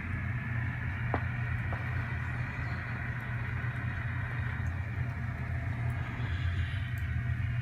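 N scale Scale Trains Tier 4 GEVO model locomotive running along the track: a steady low motor hum with a higher whirring hiss, and a faint click or two about a second in.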